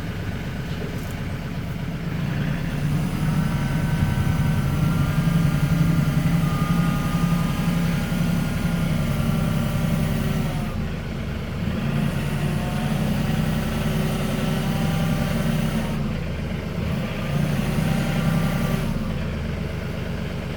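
RK37 compact tractor's diesel engine running, picking up speed about three seconds in with a higher whine over it, then easing off briefly twice later on.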